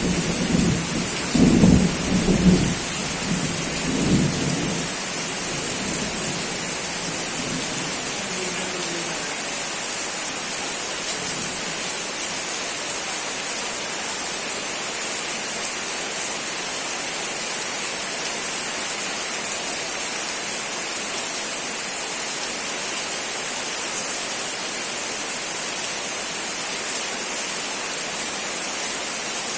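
Steady rain falling with an even hiss, and a roll of thunder rumbling low in the first few seconds before fading out.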